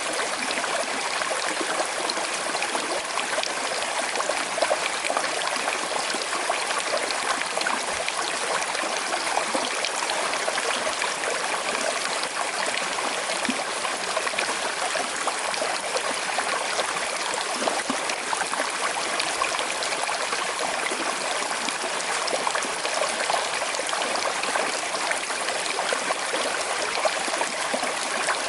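Small river with a slight current, water flowing and trickling over stones in a steady, even rush.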